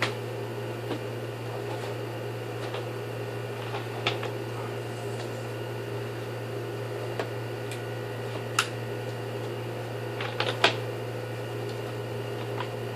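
Dansat 21-litre vacuum cleaner's motor running steadily on a test run, with a few sharp clicks and knocks of handling around it.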